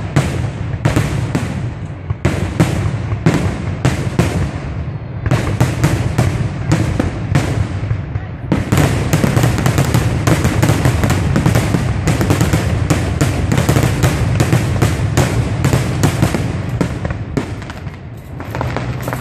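Fireworks bursting overhead. At first the shells explode one after another, about two a second; a little under halfway through they merge into a dense, rapid barrage of reports that eases off near the end.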